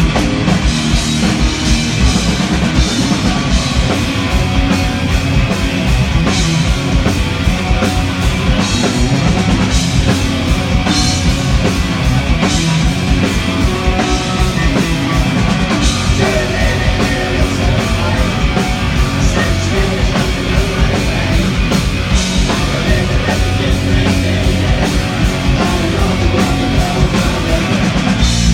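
Heavy rock band playing loudly, with a pounding drum kit and distorted guitars.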